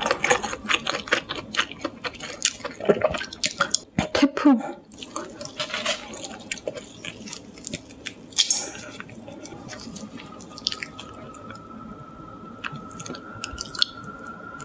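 Close-miked chewing of grilled shrimp: wet, clicking mouth sounds, dense for the first few seconds and then sparser. From about ten seconds in, a faint steady high whine rises slightly in pitch underneath.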